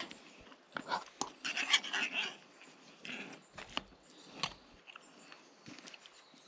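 A dog close by, loudest in a short noisy burst about one and a half to two and a half seconds in, among scattered light clicks and knocks.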